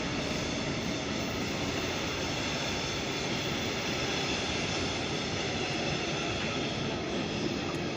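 Steady running noise of a train in a railway station: an even, unbroken hum and hiss with faint high tones over it, with no change in level.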